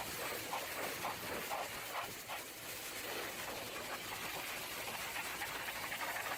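High-pressure water jet spraying against a truck's body, a steady hiss of spray with uneven spatter.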